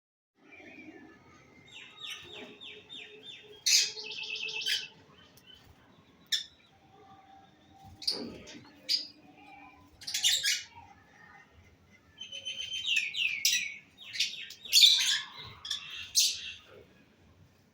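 Rosy-faced lovebirds chirping in short, high calls that come in bursts, with a quick run of about six repeated notes near the start and a louder cluster of calls near the end.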